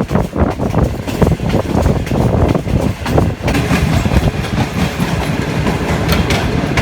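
Express train's wheels running fast over the track, a rapid clattering over rail joints and points that gives way about three and a half seconds in to a steadier rumble.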